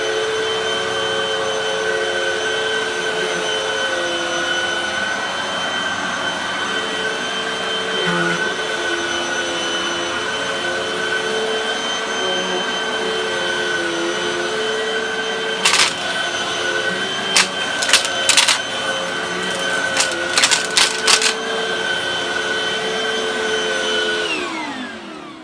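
Hoover High Performance Pet vacuum cleaner running with a steady motor whine. A burst of sharp clicks and rattles comes in about two-thirds of the way through. Near the end it is switched off and the whine falls away as the motor spins down.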